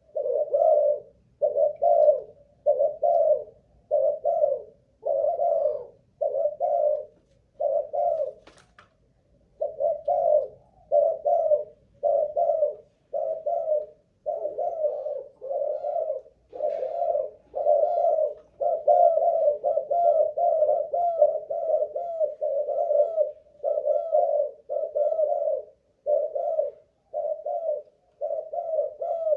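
Spotted dove of the Malaysian cooing strain cooing in a long, unbroken run of low, even coos, about one a second, with one short pause about a third of the way through.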